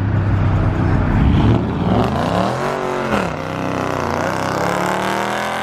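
A 5.7-litre Hemi V8 car accelerating hard. The engine note climbs, drops sharply at an upshift about three seconds in, then climbs again.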